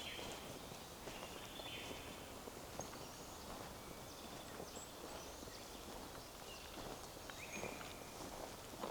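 Footsteps along a forest path, with several birds singing short notes and high whistles throughout.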